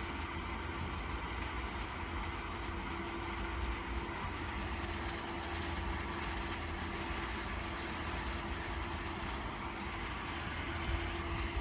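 Welding machine with a modified 24 V power-supply board running: a steady hum with a held tone over an even hiss.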